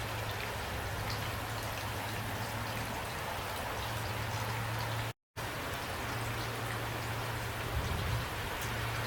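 Steady heavy rain falling and pattering on surfaces, with a low steady hum underneath. The sound cuts out completely for a moment just past halfway, then resumes.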